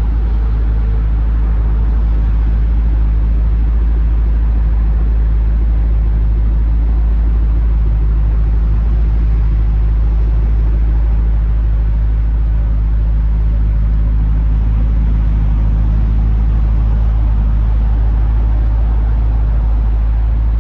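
2006 Pontiac GTO's 6.0-litre LS2 V8, fitted with a cat-back exhaust, idling steadily with a deep, even hum.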